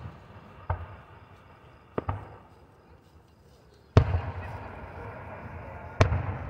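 Distant aerial firework shells bursting: four booms in the space of a few seconds, each trailing off in echo. The loudest comes about four seconds in and is followed by a lingering crackle.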